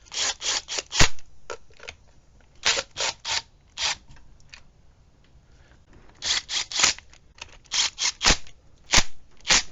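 Irregular clusters of sharp metallic clicks and clacks, often three or four in quick succession, from hand tools and bolts being worked on a metal engine case, with near-quiet pauses between the clusters.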